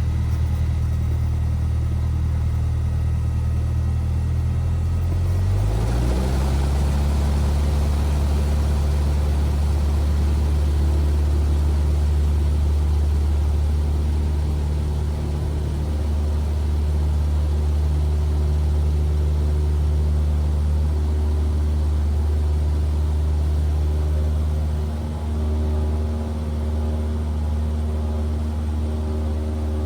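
Cessna 172R's four-cylinder Lycoming engine and propeller droning steadily in flight, heard from the cabin; the engine note changes about six seconds in, then holds.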